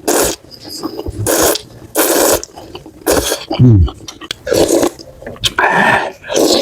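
Close-miked eating of spicy noodles and rice cakes: a run of short, loud slurps and chewing sounds, with a brief low hum that falls in pitch about three and a half seconds in.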